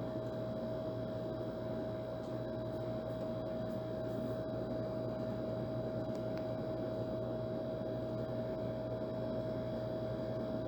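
Old air conditioner running steadily: a constant hum with a clear steady tone over a low rumble and an airy hiss.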